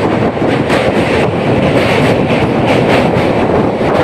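Indian Railways passenger train running, heard from the open door of a moving coach: steady wheel-and-rail noise with faint clacks now and then.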